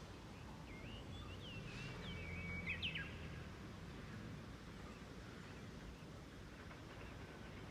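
A bird's short phrase of whistled, swooping notes, about one to three seconds in, over a faint steady low rumble of background noise.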